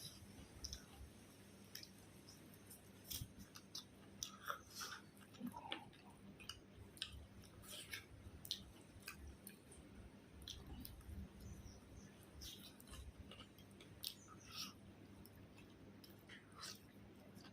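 Faint chewing and mouth sounds of a person eating, with irregular soft clicks scattered throughout.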